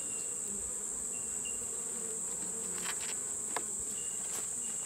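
Honeybees humming around an open nucleus hive, under a steady high-pitched insect drone. A few light clicks and knocks from the hive parts being handled come in the second half.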